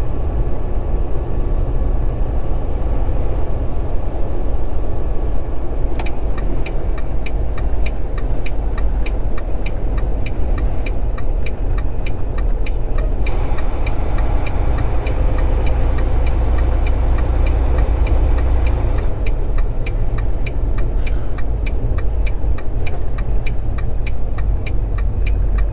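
Cab interior of a loaded Volvo VNL 780 semi truck cruising at highway speed: a steady low drone of engine and tyres. A light, regular ticking of about three a second runs through much of it, and a higher hiss rises for several seconds about halfway through.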